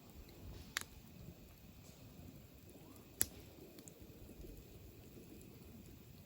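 Wood campfire burning faintly with a low steady rumble, and two sharp pops from the burning wood, one just under a second in and a louder one about three seconds in.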